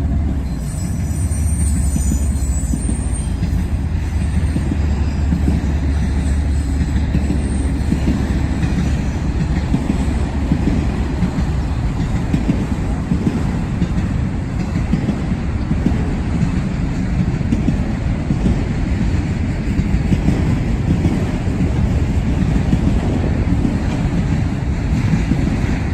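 CSX auto-rack freight train rolling past, a steady loud rumble of wheels on the rails. A thin high squeal sounds over it in the first few seconds.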